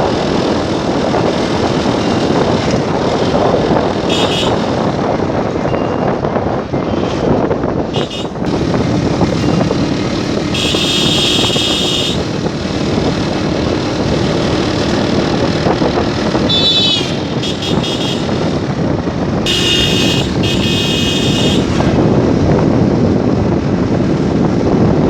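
Steady wind and road noise from a moving motorcycle, with vehicle horns honking several times: a few short toots and two longer blasts of about a second and a half each.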